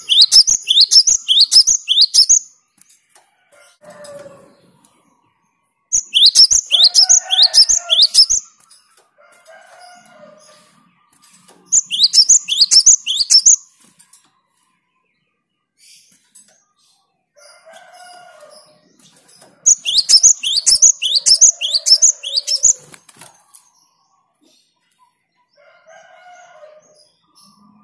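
Cinereous tit (gelatik batu) singing: four loud bouts, each about two seconds of rapid, repeated high notes sweeping downward. Fainter, lower calls sound in the gaps between bouts.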